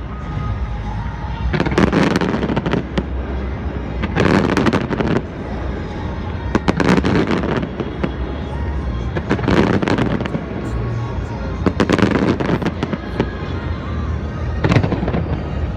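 Fireworks exploding in volleys of bangs and crackling, a new cluster every two to three seconds, over a steady low rumble.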